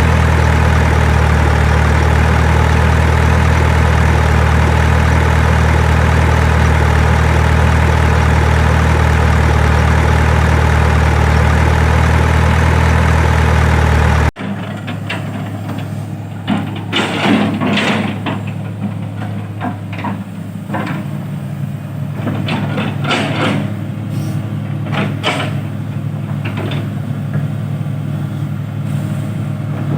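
Heavy diesel engine idling steadily with a deep, even hum. About halfway through it cuts off abruptly to a quieter engine running under scattered knocks and clanks.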